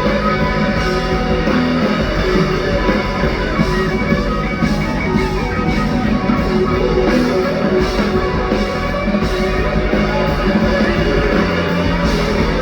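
Live rock band playing an instrumental passage led by electric guitar, with no singing.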